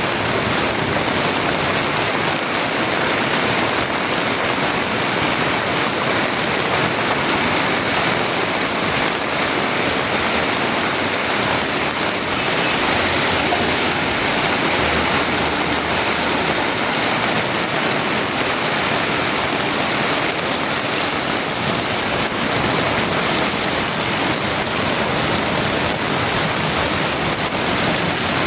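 Heavy rain pouring down, an unbroken dense hiss with no let-up.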